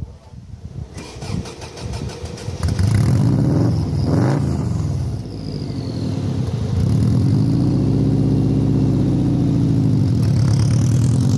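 Turbocharged Subaru WRX flat-four engine in a VW split-window bus cranked by the starter for a second or two, catching about three seconds in. It is revved up and down briefly, then settles into a steady idle.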